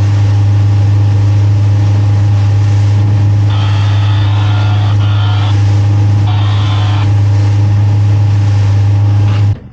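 Outboard motor running steadily, heard over a VHF marine radio whose transmit button someone is holding down: a loud, even drone with a strong low hum, starting and cutting off abruptly.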